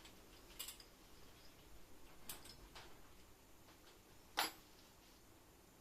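A few faint clicks and light knocks, with one sharper click about four and a half seconds in, over quiet room tone.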